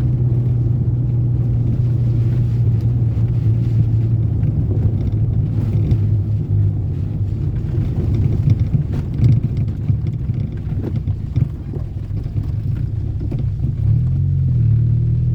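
Toyota Corolla AE80 saloon's engine running steadily under way, with some irregular knocks in the middle stretch. Near the end the engine note dips and then climbs again.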